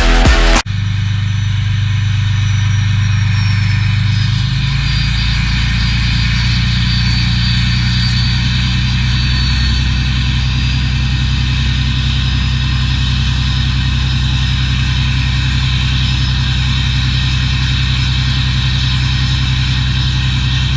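Straight-piped Cummins diesel engine idling steadily, its low note shifting slightly in pitch about four seconds in and then holding. A faint high whine sinks slowly in pitch over the first ten seconds.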